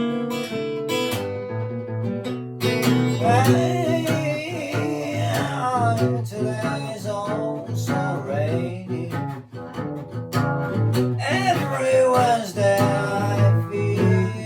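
Fingerpicked blues on an Amrita Custom F-Model flattop acoustic guitar, with a voice singing along twice in wavering lines.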